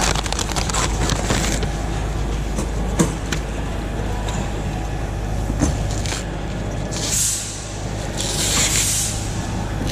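Peel ply being ripped off a cured fiberglass wet lay-up, heard as hissy tearing strokes about seven seconds in and again for about a second near the end, with scattered clicks of handling, over a steady low hum.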